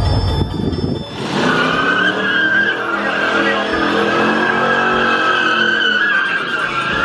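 A car spinning its tyres: a sustained tyre squeal starts about a second in, with the engine revving up and down underneath.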